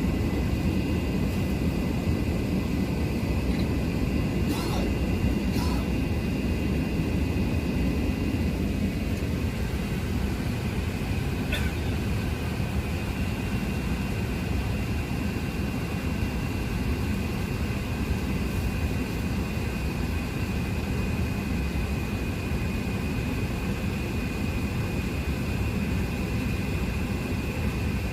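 Steady roar of an Airbus A380 jet airliner heard from inside the cabin: engine and airflow noise with a faint high steady whine, broken only by a couple of faint clicks.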